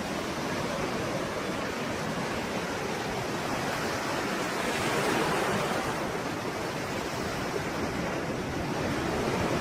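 Stormy sea waves: continuous surf with a wave surging up to a peak about halfway through, easing, then building again near the end.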